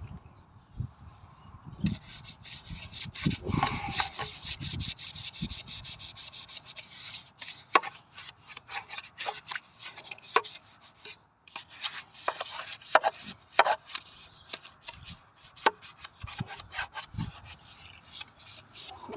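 Scraping and scrubbing inside an engine sump pan as its sludge is cleaned out with petrol: irregular rubbing strokes broken by short clicks and knocks.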